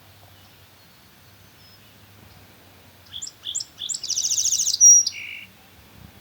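A songbird sings one song about three seconds in: a few quick rising notes, then a fast buzzy trill, ending on a short lower buzzy note.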